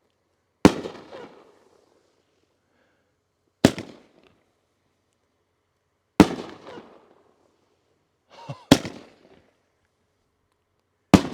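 Firework shells from a 3-inch nine-on-a-board (NOAB) rack firing in sequence: five sharp booms about two and a half seconds apart, each trailing off in a short echoing tail.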